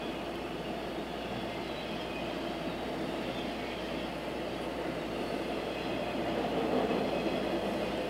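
Autorack freight cars of a passing freight train rolling by, a steady rumble of steel wheels on the rails heard from inside a car.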